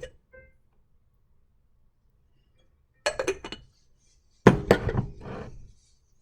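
Hard objects clinking and clattering in two bursts, a short one about three seconds in and a longer, louder one about a second and a half later.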